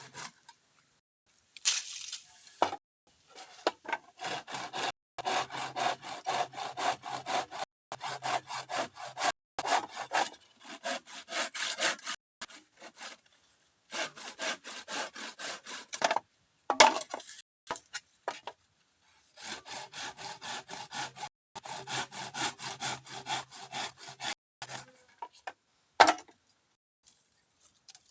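Hand saw cutting through bamboo with quick back-and-forth strokes, in several runs broken by short pauses.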